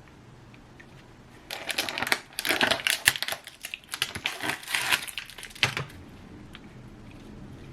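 A burst of rapid, dense clicking and crinkly rustling, like things being handled, starting about a second and a half in and stopping sharply about four seconds later.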